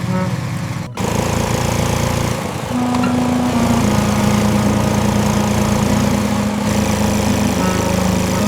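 A small motor running with a steady droning buzz that shifts up and down in pitch a few times, briefly cut off about a second in.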